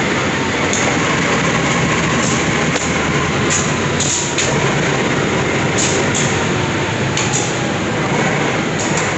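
CC 201 diesel-electric locomotive running slowly past as it pulls into the station, followed by its passenger coaches rolling by, a loud steady rumble throughout. Several short, sharp high-pitched sounds stand out over the rumble.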